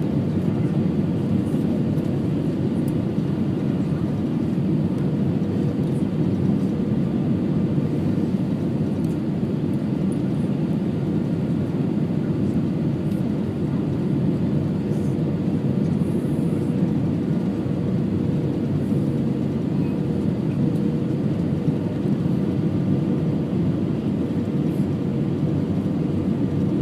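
Steady cabin noise inside an Airbus A320-232 in flight: the low rush of engines and airflow, with a faint steady hum running through it.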